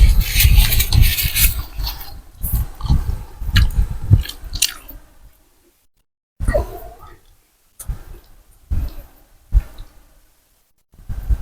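Close-miked eating of Thai boat noodle soup: several seconds of busy, wet chewing and slurping. After a short pause about five seconds in come scattered single chews and mouth smacks.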